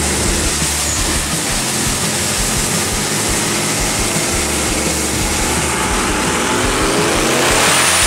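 Twin-turbo 454 cubic-inch LSX V8 running under load on a dyno, its pitch rising in the last couple of seconds as the revs climb.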